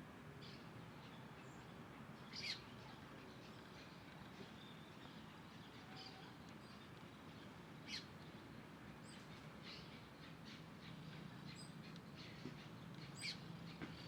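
Birds calling with scattered short, high chirps, three of them louder at about two and a half, eight and thirteen seconds in, over a faint steady low hum.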